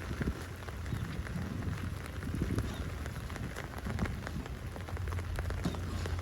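Rain falling, with many separate drops ticking on nearby surfaces over a steady hiss.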